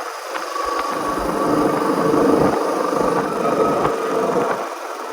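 Royal Enfield Standard 350's single-cylinder engine running steadily.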